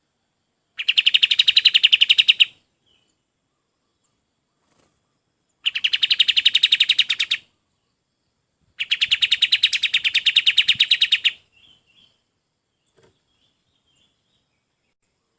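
Kapas tembak bird singing: three fast trills of rapidly repeated high notes, each lasting about two seconds, the last one the longest, followed by a few faint short calls.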